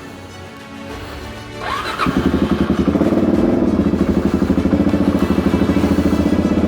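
Suzuki DR-Z400 single-cylinder four-stroke motorcycle engine starting about two seconds in and settling into a steady, evenly pulsing idle.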